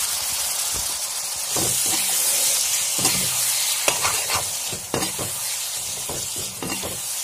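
Marinated chicken and onions sizzling in hot oil in a pan, a steady hiss. A metal slotted spatula stirs through it, making a string of short scraping strokes against the pan.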